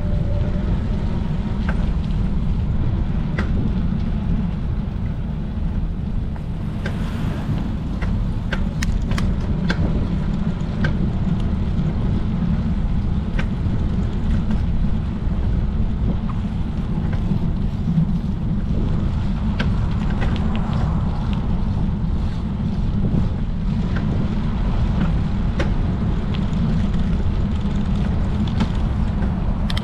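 Steady low rumble of wind and road noise from riding a bicycle, with scattered light clicks and rattles, most of them in a cluster a quarter of the way in.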